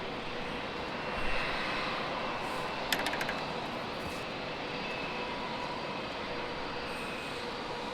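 Jet airliner engines running steadily, a broad rush with a faint steady whine on top. A short rattle of clicks comes about three seconds in.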